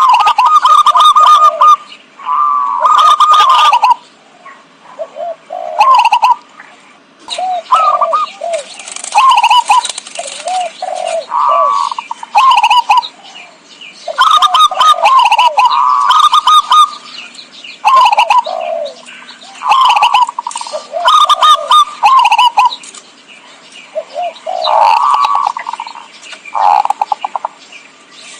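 Zebra doves (perkutut) cooing: loud phrases of quick, quavering, trilled coos repeated with short pauses between them, a lure call for attracting wild zebra doves.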